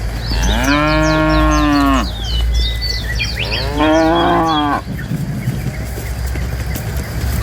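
Two long cow moos, the first about a second and a half long, the second shorter, from cattle being herded, with small birds chirping throughout.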